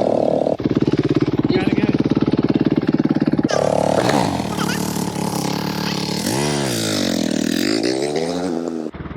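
Dirt bike engine running with a fast, even firing beat, then after an abrupt cut revving, its pitch dipping and rising again as the throttle is worked.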